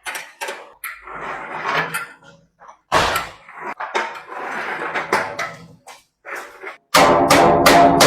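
Irregular knocks and scraping from sheet-metal work, then background music with a quick steady beat comes in about seven seconds in.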